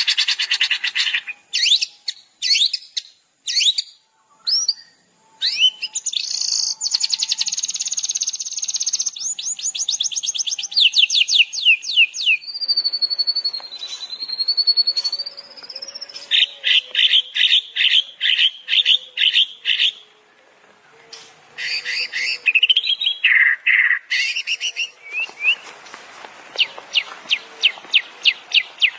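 Songbird song from a bird-tutoring (masteran) recording: fast high trills and rapid runs of sharp repeated chip notes, with one long wavering whistle about halfway through.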